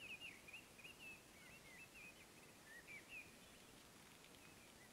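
Faint songbird twittering, a quick run of short chirping notes through the first three seconds or so, over quiet outdoor background hiss.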